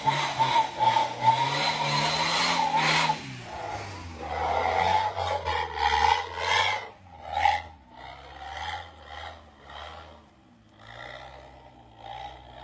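Daihatsu Gran Max pickup engine revving with a harsh, rasping note, then dropping back to shorter, weaker throttle blips about a second apart.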